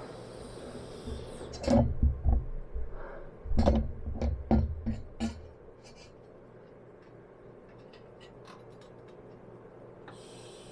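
Clattering knocks and thuds of metal parts and tools being handled during garage fabrication work. There are two bursts in the first half, then a few faint ticks.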